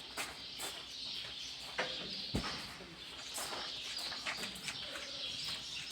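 Small birds chirping, with scattered clicks and rustling and one low thump a little over two seconds in.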